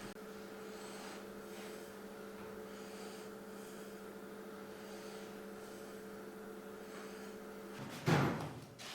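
A steady mechanical hum, several fixed tones held together, runs until it stops about eight seconds in. Right after it stops comes a single loud thud, the loudest sound.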